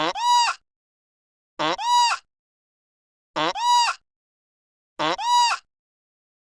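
The same short, high animal call repeated four times at even intervals, each call identical, with a pitch that rises and falls.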